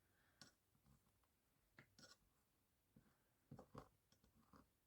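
Near silence, broken by a few faint, short taps and clicks of objects being handled on a work surface.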